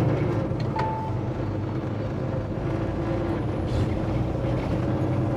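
Semi truck's diesel engine running steadily at low speed, heard inside the cab, with a short beep about a second in.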